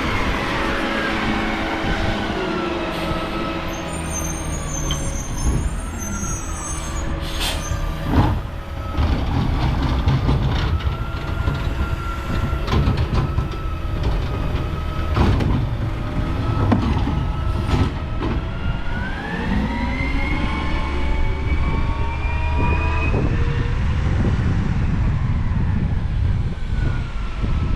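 Garbage truck's engine running under load, its pitch falling and later climbing as it revs, with several sharp bangs over the top.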